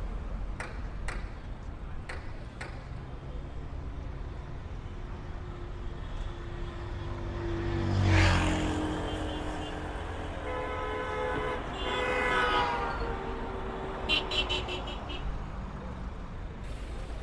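Road traffic: a steady rumble of vehicles, with one passing loudly about eight seconds in and a vehicle horn honking a couple of seconds later.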